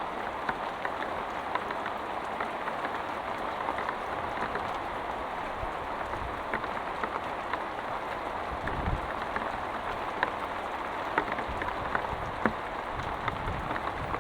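Heavy rain falling on a hut, a steady hiss with many separate drops ticking sharply. A brief low thud sounds about two-thirds of the way through.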